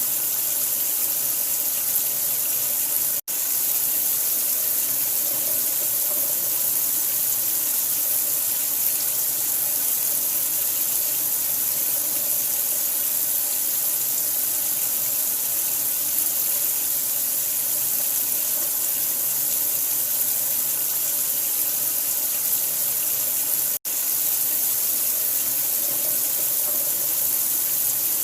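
Steady rush of running water, an even hiss with no change in level, broken by two split-second dropouts: one about three seconds in and one near the end.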